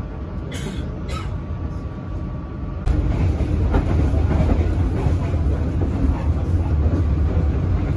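Passenger train running on the rails: a continuous rumble of wheels and carriage with some clickety-clack. About three seconds in it becomes abruptly louder and heavier in the low end.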